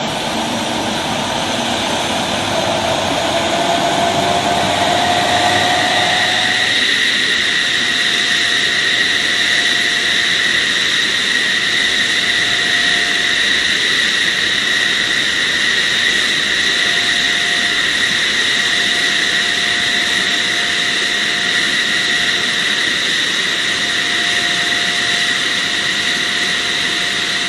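Fighter jet's engines running with a steady, loud high-pitched whine; a lower tone climbs in pitch over the first several seconds, then holds steady.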